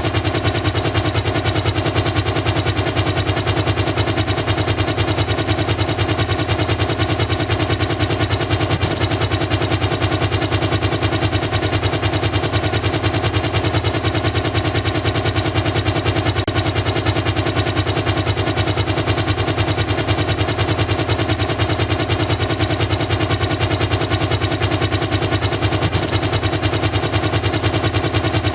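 Xiro Xplorer quadcopter drone's electric motors and propellers running, a steady, unchanging buzzing drone of sound.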